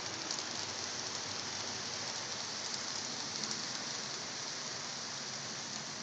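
Steady hissing running noise of HO-scale model trains rolling on the layout's track, with faint scattered ticks.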